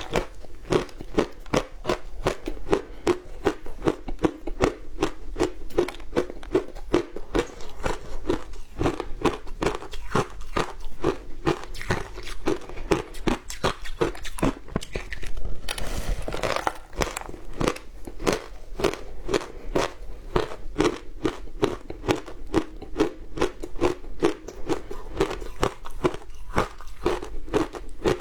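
Close-up crunching of frozen matcha ice being chewed, a steady run of crisp cracks at a rhythm of a few chews a second, with a louder fresh bite about sixteen seconds in.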